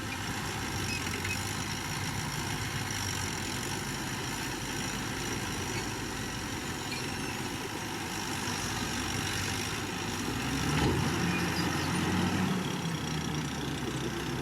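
Heavy diesel earthmoving machinery engine running steadily, growing louder with a low drone coming up about ten seconds in.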